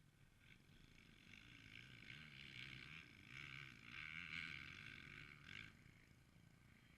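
Faint motocross bike engine, its pitch wavering with the throttle, growing louder through the middle and fading near the end.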